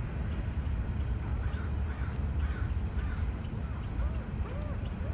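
Birds calling outdoors: short high chirps about three times a second, and several faint arching calls in the second half, over a steady low rumble.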